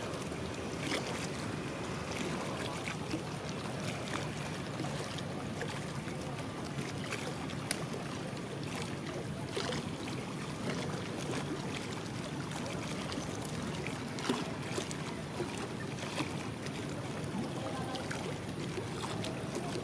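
Steady low outdoor rumble with wind on the microphone and scattered faint clicks.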